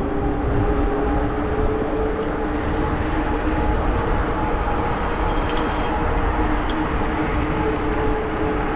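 Wind buffeting the action camera's microphone and tyres rolling on the trail while riding an e-bike, with a steady hum from the e-bike's motor under way.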